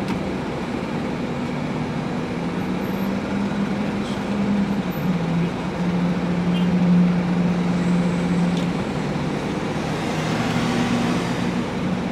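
Car engine idling, heard from inside the cabin: a steady low hum that shifts in pitch a few times.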